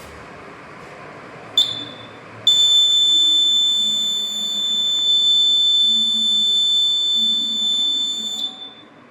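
Electronic buzzer on an Arduino Nano rain detector sounding a steady high-pitched tone: a short blip, then a continuous tone for about six seconds before it cuts off. It is switched on because water droplets are on the rain sensor module.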